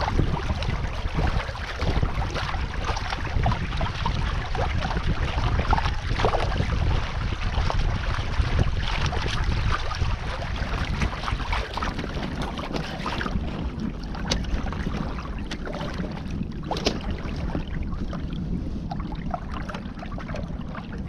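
Water rushing and splashing along a sailing canoe's hull, with wind buffeting the microphone. The rushing eases about two-thirds of the way through, and a couple of sharp knocks come after it.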